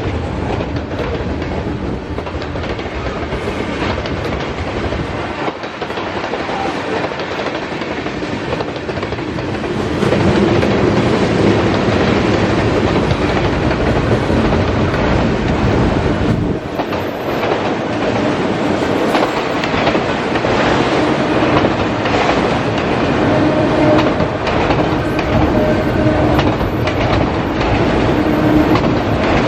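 Freight cars of a long CSX mixed freight train rolling past, steel wheels clattering over the rail joints, louder from about ten seconds in. A steady wheel tone comes and goes near the end.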